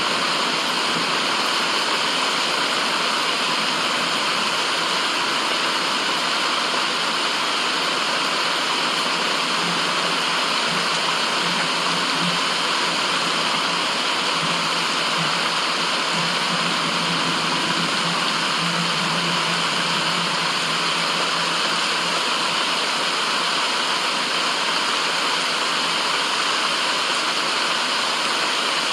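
Steady, even rushing noise of a white-noise track, unchanging throughout, with a faint low hum wavering underneath.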